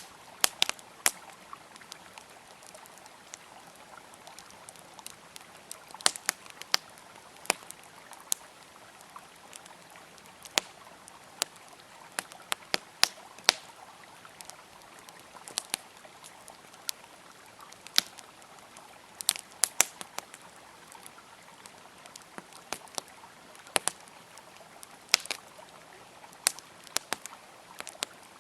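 Campfire crackling, with sharp irregular pops scattered through, over the steady rush of a flowing river.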